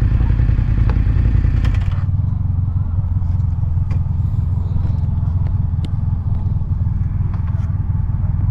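Kawasaki Z900's inline-four engine running through a titanium Arrow exhaust; about two seconds in the sound drops to a lower, steadier note, with a few light clicks.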